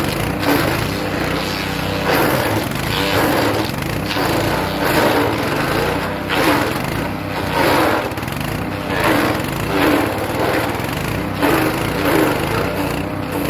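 Hecht 6208 petrol wood chipper running steadily while chipping birch. Irregular crunching surges come every second or two as branches are pulled in and shredded.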